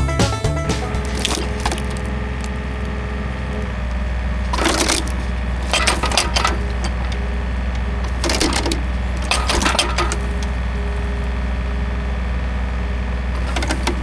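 An old timber fence post being worked out of the ground, its wood cracking and splintering in several short bursts over a steady low hum.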